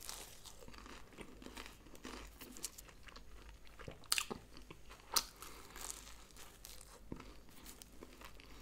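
A person biting into and chewing a flaky puff-pastry chicken seekh pocket: quiet crunching of the pastry, with a few sharper crunches about four and five seconds in.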